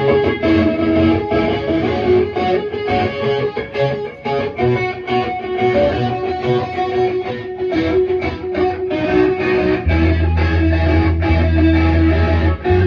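Live band opening a song with a plucked electric guitar riff. A deep bass comes in heavily about ten seconds in.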